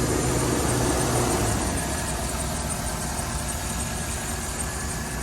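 Chevrolet Avalanche's 5.3-litre V8 engine running, a little louder for the first second and a half, then settling to a steady idle.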